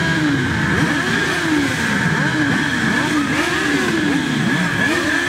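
Several motorcycle engines revving at once, their overlapping revs rising and falling in pitch over and over.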